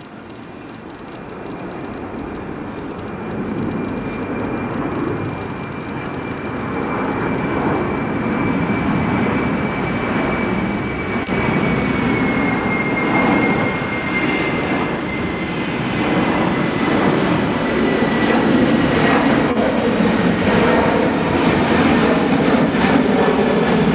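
Airbus A330-300 airliner's jet engines at takeoff thrust, a roar that grows steadily louder as the aircraft approaches, with a high whine that slowly drops in pitch.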